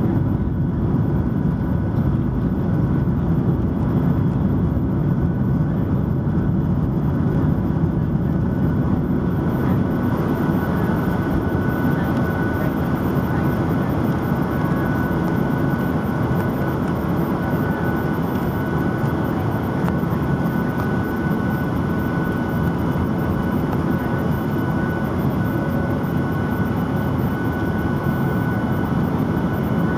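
Boeing 737-900's CFM56-7B jet engines at takeoff thrust, heard from inside the cabin over the wing: a loud, steady rush of engine and air noise. A high whine from the engines grows stronger about ten seconds in.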